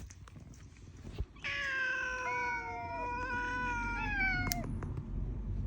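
Stray cat giving one long, drawn-out meow lasting about three seconds, its pitch sagging slightly toward the end, over a low steady rumble.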